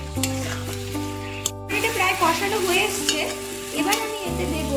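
Spatula stirring and scraping a spice masala frying in oil in a pan, with a steady sizzle: the masala being sautéed down (kosha) with salt just added.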